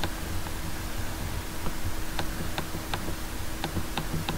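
Computer mouse clicking about six times at irregular intervals over a steady low hum, starting about halfway through.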